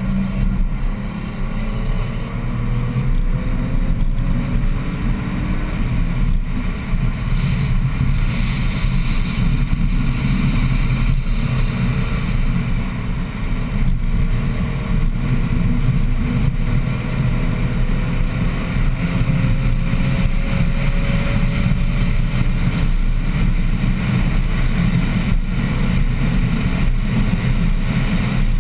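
BMW 1M's twin-turbo 3.0-litre straight-six running hard under acceleration, heard inside the cabin over heavy road and tyre rumble. The engine note climbs slowly twice, the second time for about ten seconds as the car pulls through a gear on a straight.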